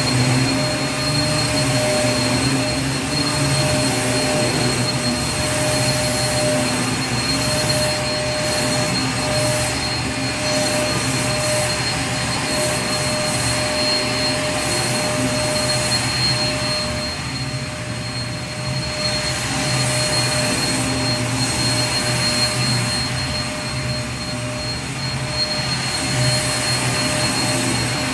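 Vacuum cleaner motor running steadily: a dense rush of air with a low hum and a thin high whine, dipping slightly in level a little past halfway.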